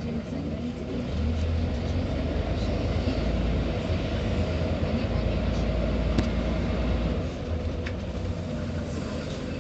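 Scania CN94UB OmniCity city bus heard from on board, its engine pulling harder from about a second in for several seconds and then easing off, over a steady whine. Two sharp clicks near the end.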